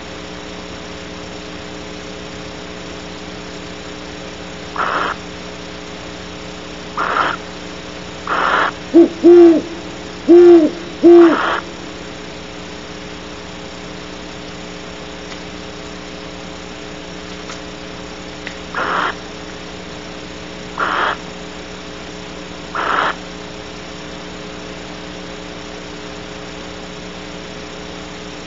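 Great horned owl hooting close by: a run of four or five low, deep hoots near the middle. Short raspy calls come now and then before and after, over a steady electrical hum.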